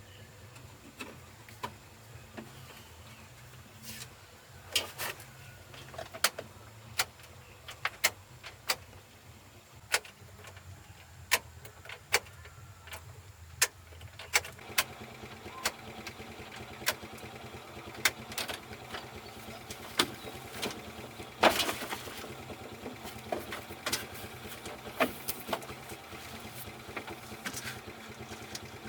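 A string of sharp, irregular taps and clicks, about one or two a second, over a low steady hum. A steady higher-pitched tone joins about halfway through.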